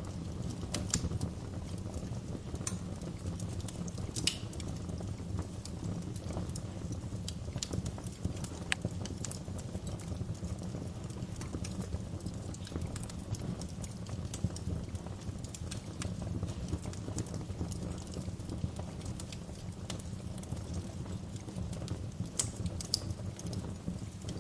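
Wood fire burning in a fireplace: a steady low rumble of flames with irregular crackles and sharp pops scattered throughout.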